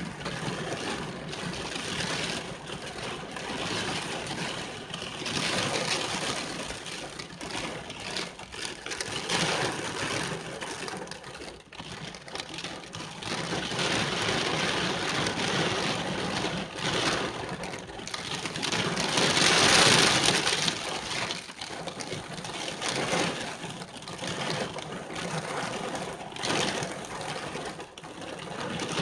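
Rain falling steadily, with an even hiss that swells louder for a couple of seconds about two-thirds of the way through.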